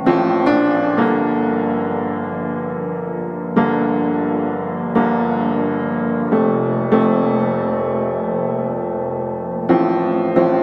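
Slow piano music: chords struck every second or two and left to ring out.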